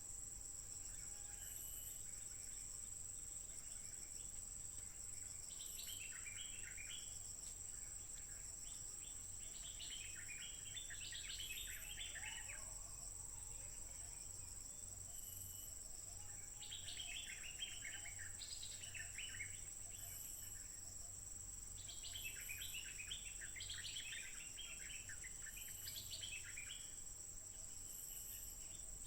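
Stripe-throated bulbul singing in short spells of quick, bubbly notes, about five phrases a few seconds apart, over a steady high-pitched insect drone.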